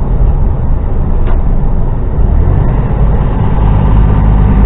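Inside an HGV truck cab: the diesel engine drones steadily under a loud, even rush of air from the cab's climate-control fan running on high. The engine drone grows stronger about three seconds in.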